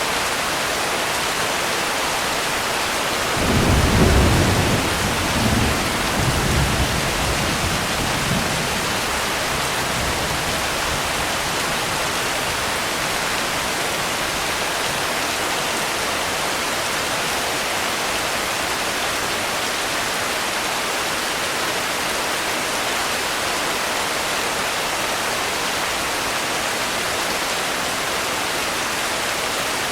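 Steady rain falling, with a low thunder rumble starting about three and a half seconds in that swells a few times and fades out over several seconds.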